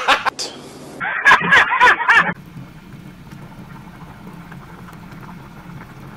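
A man laughing loudly in a short cut-in clip, with a loud burst at the start, stopping abruptly a little over two seconds in. After that, a pot of soup simmering quietly, a low steady bubbling.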